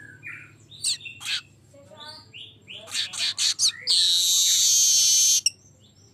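Streaked weaver singing: a run of short chattering notes and sharp ticks, then about four seconds in a loud, high, buzzing wheeze lasting about a second and a half that stops abruptly.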